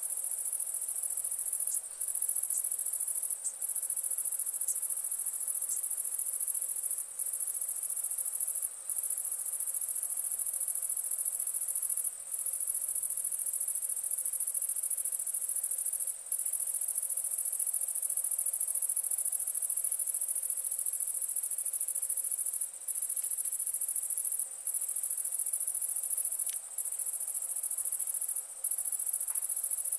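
Steady high-pitched insect chorus of crickets, cutting out for a split second about every two to four seconds, with a few faint crackles from a wood campfire.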